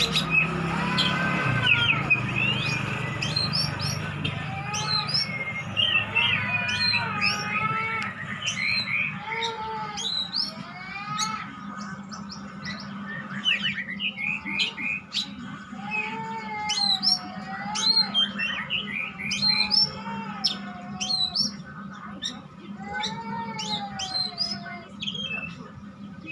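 Oriental magpie-robin singing vigorously: a long, continuous run of varied whistled phrases, with notes sliding up and down and quick high chirps in between.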